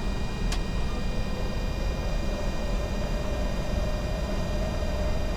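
Steady cockpit noise of a Bombardier Challenger 605 jet in flight: rushing airflow and engine hum. There is a single sharp click about half a second in, and a faint steady tone comes in about two seconds in.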